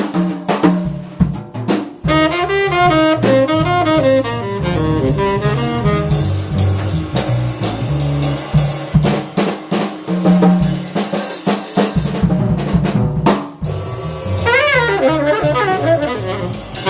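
Jazz trio playing: a short drum kit break, then about two seconds in the tenor saxophone comes in with melodic lines over bass and drums. Near the end the saxophone plays fast up-and-down runs.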